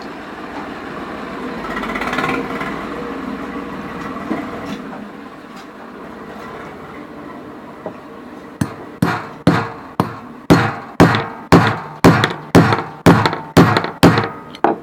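A hammer striking metal again and again, about two blows a second, to drive a stuck bearing out of a ceiling fan's housing. The blows start about halfway through, after several seconds of duller working noise.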